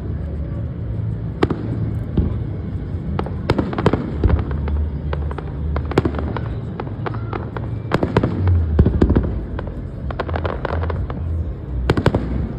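Fireworks going off: a rapid, irregular series of sharp bangs and crackles, several bunched close together around the middle and near the end, over a steady low rumble.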